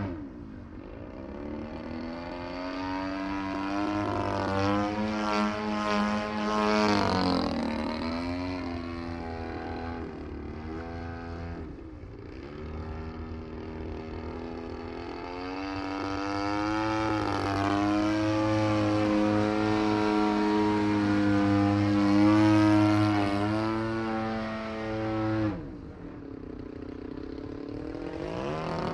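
DLE-35RA single-cylinder two-stroke gas engine of a 74-inch Extreme Flight Laser RC aerobatic plane in flight. Its pitch rises and falls repeatedly with throttle changes, dips sharply about twelve seconds in, and drops suddenly near the end.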